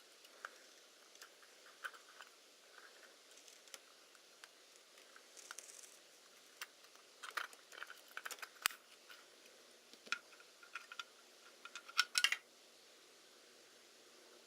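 Scattered small clicks and light metallic clinks from handling small parts and tools by hand, with a quick flurry of clicks about seven seconds in and another shortly before the end.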